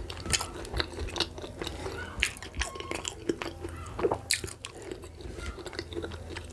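Close-miked chewing and wet mouth clicks as a person eats boiled cocoyam with pepper dip by hand, with several irregular smacks a second over a faint steady low hum.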